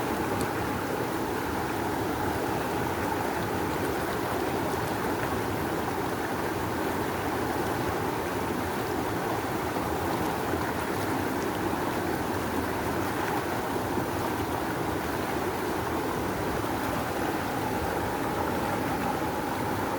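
Rushing river water flowing strongly, a steady, even rush without breaks.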